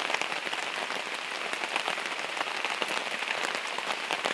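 Rain falling steadily but not hard, with many separate drop hits sounding through an even hiss.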